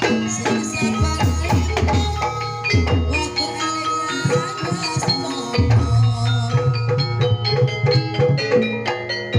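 Javanese jaranan/barongan ensemble music: struck metal mallet instruments play a quick run of pitched notes over steady drum beats.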